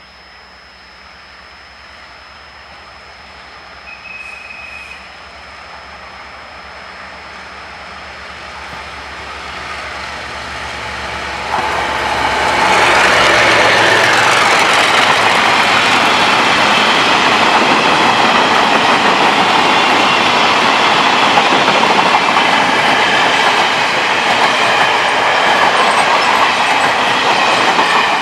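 A train approaching and then running through the station, growing steadily louder for about twelve seconds and then loud and sustained as the cars pass, with wheels clattering over the rail joints.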